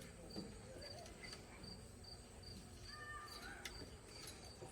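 Faint insect chirping in an even rhythm, about two to three short high chirps a second. A brief faint two-note call sounds about three seconds in.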